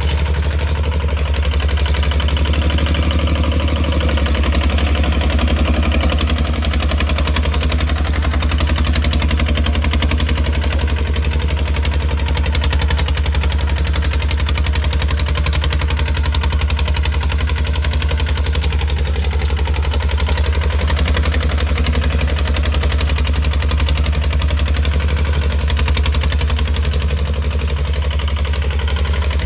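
Kubota RT155 single-cylinder diesel engine running steadily, with a rapid, even knocking beat over a low hum.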